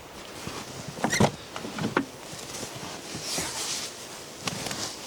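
A few sharp knocks and clatters of things being handled, followed by rustling.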